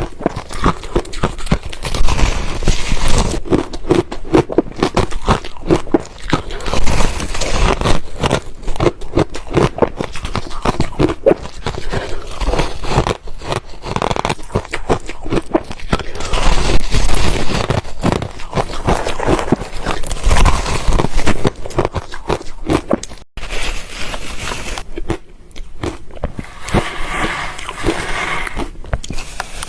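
Ice being bitten and chewed close to the microphone: a dense, loud run of crunching and crackling as the pieces break between the teeth.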